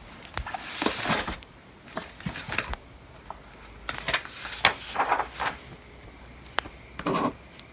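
Irregular scratching strokes and light clicks of writing on paper, with scattered crackles from a bonfire.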